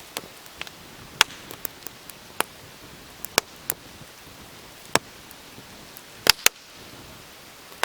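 Campfire of wet firewood crackling: about a dozen sharp, irregular pops over a steady hiss, the loudest a quick pair about six seconds in.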